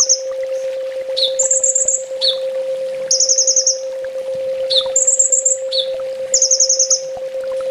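Recorded song of a kolibri ninja sunbird played as a tutor track. A short high falling chip is followed by rapid, buzzy high trills, and the phrase repeats about every second and a half over a steady low hum.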